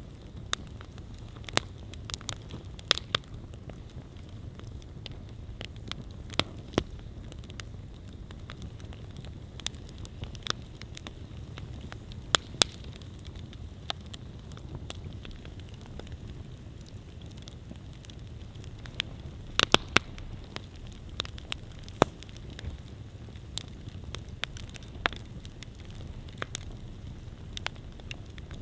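Wood campfire burning with a steady low hiss and irregular crackles, including a few sharp, loud pops.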